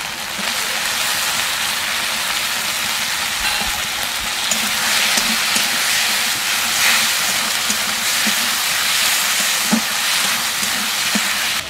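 Chopped tomatoes sizzling in hot mustard oil with fried onion and ginger-garlic-chilli paste in a metal kadai, stirred with a metal spatula. A steady frying hiss that jumps up as the tomatoes go in and is loudest around the middle, with a few light spatula knocks near the end.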